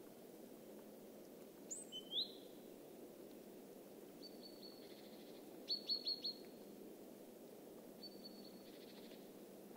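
Small birds calling: short high chirps in quick runs of three to five, heard several times, with one whistled note about two seconds in that falls and then rises. A faint steady hiss of outdoor background lies underneath.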